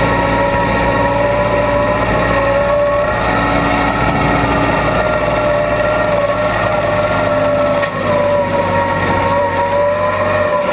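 Case 580B backhoe running steadily under work, its engine humming low beneath a higher whine that rises and falls slightly in pitch as the machine works.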